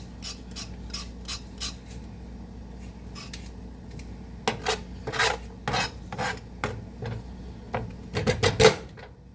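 Vegetable peeler scraping the skin off a potato in a run of short rasping strokes. The strokes are quicker and softer at first, pause, then come back louder and heavier through the second half, with the loudest near the end.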